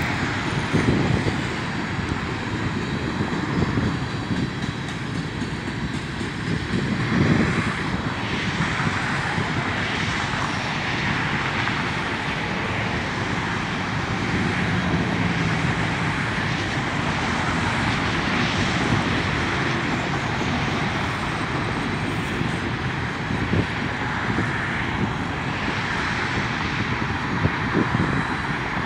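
Coal hopper cars of a freight train rolling past on steel wheels: a steady rumble and rail noise.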